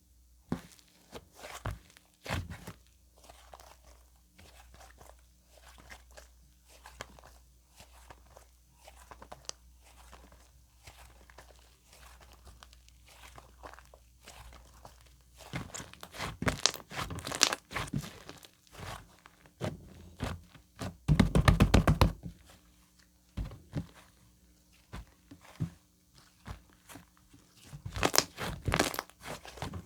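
White slime being squeezed, stretched and poked by hand, making sticky clicks, pops and crackles, with louder, denser crackling about halfway through and again near the end.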